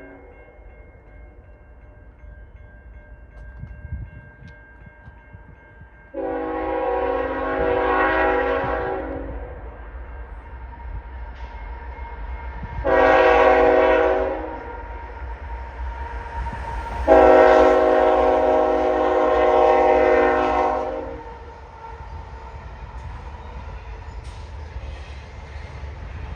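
Freight locomotive's Nathan K5HL five-chime air horn, on a CN GEVO, sounding a long blast, a short one and another long blast: the tail of a grade-crossing signal. Under it runs the steady rumble of the passing train.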